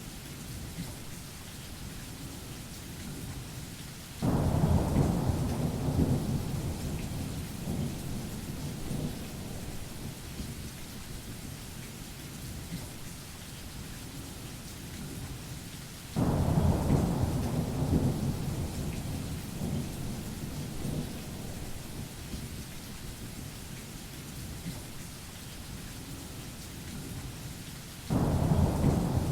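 Steady heavy rain with thunder. Three rumbles start suddenly, about twelve seconds apart, each loudest at first and fading over several seconds.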